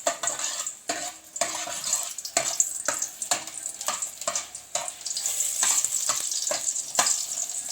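Pounded garlic sizzling in hot oil, with a steady hiss. Repeated irregular scrapes and knocks of a utensil against the pan as it is stirred.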